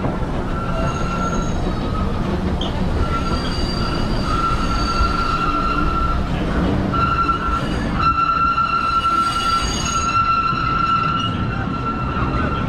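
Disneyland Railroad steam train's passenger cars rolling across a trestle bridge: a steady rumble with a high wheel squeal that starts about half a second in and comes and goes, longest and strongest in the second half.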